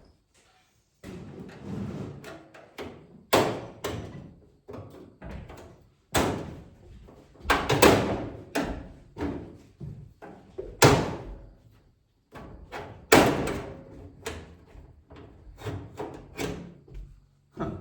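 Repeated knocks, bangs and clatter from handling a microwave oven's metal case while trying to work its back off, with about five heavier bangs among lighter knocks.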